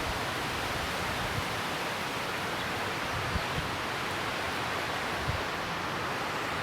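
Strong wind rushing steadily, a smooth even hiss, with a few faint low thumps of gusts on the microphone.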